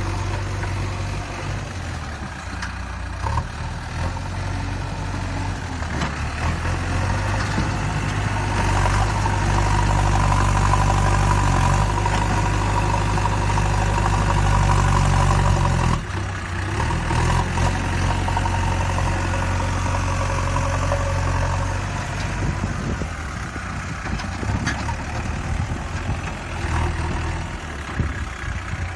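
A vehicle engine running steadily, getting louder about eight seconds in and dropping back abruptly at about sixteen seconds.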